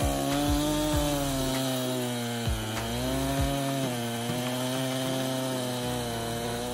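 A small petrol engine running steadily, its pitch dipping slightly now and then under load, with a few low knocks. It stops abruptly near the end.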